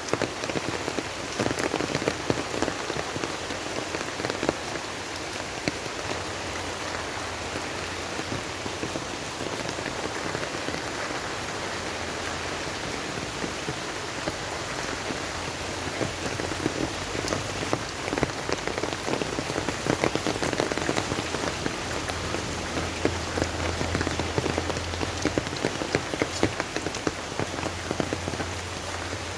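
Steady rain falling, with many separate drops striking a surface as sharp little ticks over the even hiss of the downpour.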